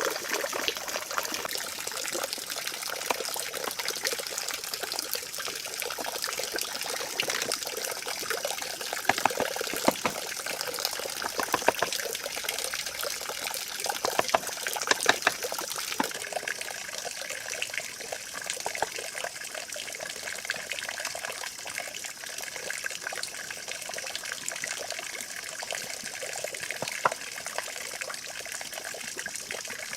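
Steady trickling of running water, with scattered light clicks and taps throughout.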